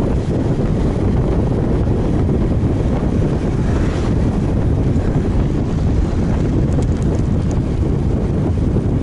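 Steady, loud wind rumble on an action camera's microphone from a road bike moving at speed.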